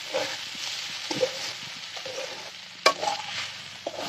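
Potato and ivy gourd (kundri) strips sizzling in oil in a kadhai while being stirred, with small scraping knocks and one sharp clank about three seconds in.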